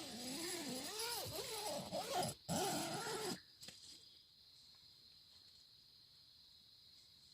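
Cat yowling and growling in long, wavering calls that stop about three and a half seconds in. After that only a steady, high insect chirring remains.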